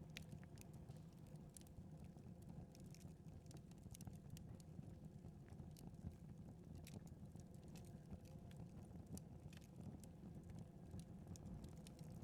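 Faint crackling of a wood fire in a fireplace: irregular small pops and snaps, a few each second, over a low steady rumble.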